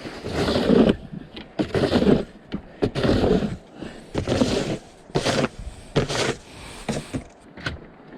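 Snow shovel scraping and pushing through light, fluffy snow, a stroke about every second.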